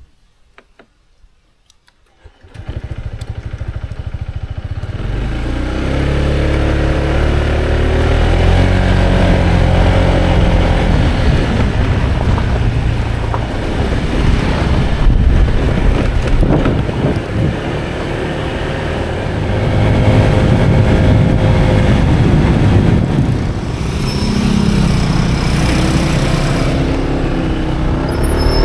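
Motorcycle engine running on a ride, coming in suddenly about two and a half seconds in, its pitch rising and stepping through gear changes.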